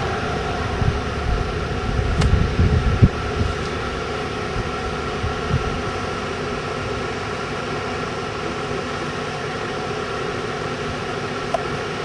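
Steady hum of a vehicle's engine and ventilation fan, with a few low thumps in the first few seconds.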